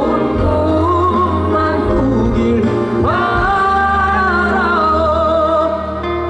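Male singer singing a slow song live with band accompaniment over a concert PA, holding a long note with vibrato from about three seconds in until near the end.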